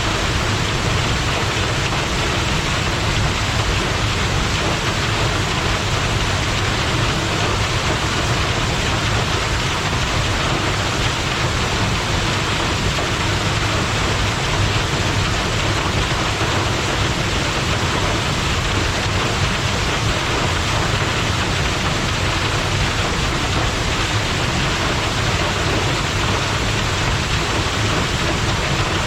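Waterfall pouring steadily, a loud, even rush of falling water with a low rumble underneath.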